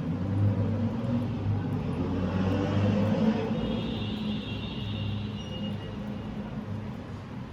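Low rumble of a passing vehicle heard from a balcony. It swells and then fades over several seconds, with a faint higher whine around the middle.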